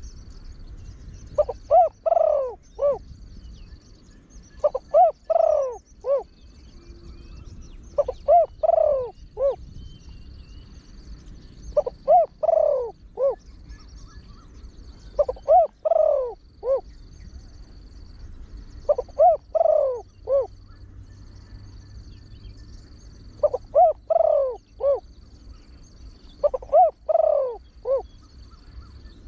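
Spotted dove, a trained bird with a deep voice, cooing its song phrase again and again. A phrase comes about every 3 to 4 seconds, eight in all, each a short run of deep coo notes.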